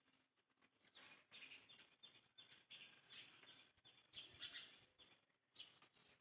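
Quiet, high-pitched animal calls, short and repeated in quick clusters from about a second in until about five seconds in.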